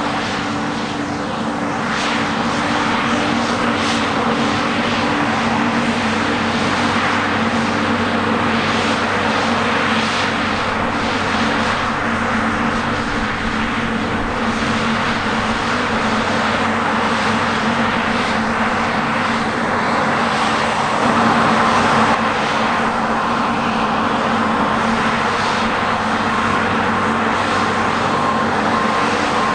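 Heavy diesel harvest machinery running steadily under load, a continuous engine and fan drone. Near the end a reversing beeper starts, giving short repeated beeps.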